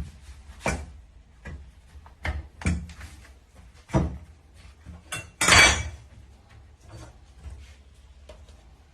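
Irregular knocks and clatters of elevated dog bed frame parts being handled and fitted together, the loudest a longer rattle about five and a half seconds in.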